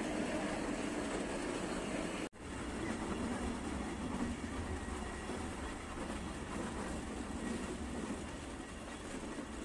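Nilgiri Mountain Railway toy train running, heard from aboard a coach: steady running noise of the carriage on the rails, broken by a brief dropout about two seconds in.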